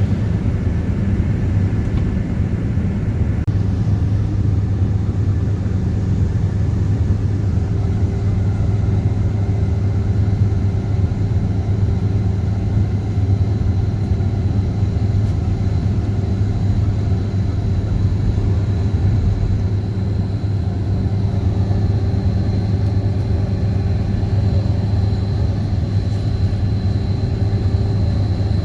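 Steady low rumble of a moving vehicle, unbroken throughout, with a faint high whine growing slightly stronger near the end.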